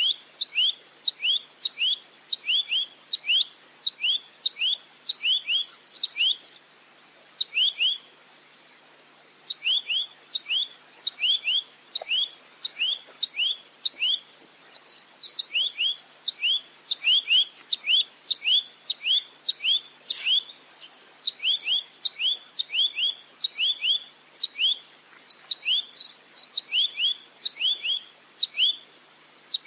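Velvet-fronted nuthatch (rambatan) calling: a long series of sharp, high, down-slurred notes, about two or three a second. The series breaks off for about three seconds near a quarter of the way through, then resumes, with fainter, higher twittering mixed in around the middle and again later.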